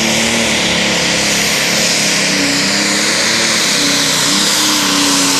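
Turbocharged John Deere super stock pulling tractor's diesel engine running at full throttle under load, pulling the weight sled. It is loud and steady, with a strong high hiss and an engine pitch that wavers up and down.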